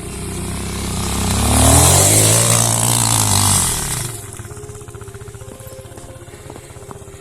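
Loncin Pruss 200 motorcycle's single-cylinder engine revving hard under load, then falling back, with a loud hiss peaking about two to four seconds in. It then runs on at low revs.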